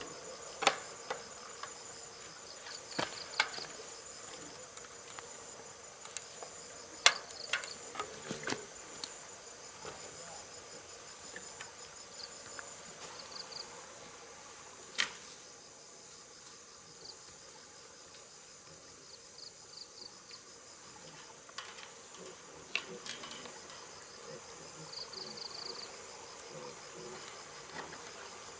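Insects chirring steadily in high, pulsing tones, with scattered sharp knocks or clicks: a few close together in the first nine seconds, one about halfway through and one more near the end.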